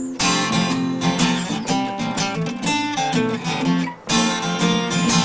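Live band playing an instrumental passage led by strummed guitar, with no singing. The sound drops out briefly just after it starts and again about four seconds in.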